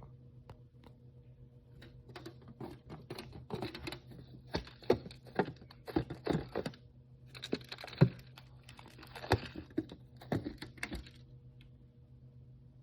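Close-up handling of packaging and small toys: a run of crinkles, rustles and sharp clicks, busiest in the middle and dying away near the end, over a steady low hum.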